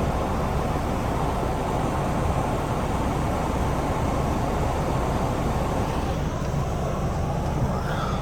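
Steady road and engine noise inside a moving car's cabin, an even rumble with no words over it.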